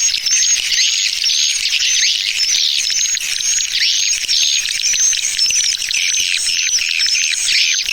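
Swiftlet lure call recording of the 'tarik' type, meant to pull swiftlets into a bird house. It is a dense, continuous twittering of many high chirps, with a string of short repeated chirps riding above it.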